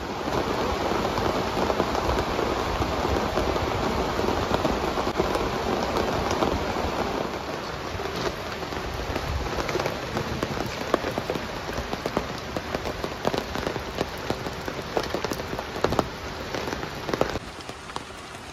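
Heavy rain falling hard and striking surfaces, a dense steady hiss with many sharp individual drop impacts; it eases a little about halfway through.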